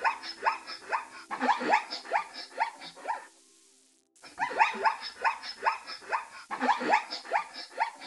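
Zebras barking: rapid runs of short, high, yelping calls, several a second. They break off about three seconds in and start again after a pause of about a second.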